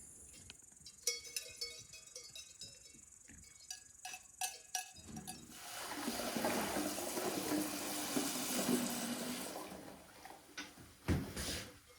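A few light clinks with short ringing tones, then liquid pouring or running for about four seconds, and a couple of knocks near the end.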